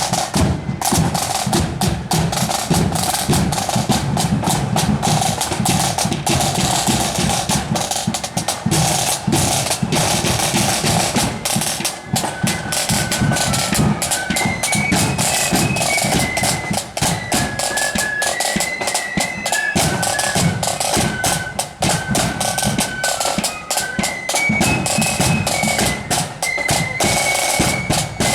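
Marching band playing: snare and bass drums beat and roll steadily, and a high, stepping melody joins the drums about halfway through.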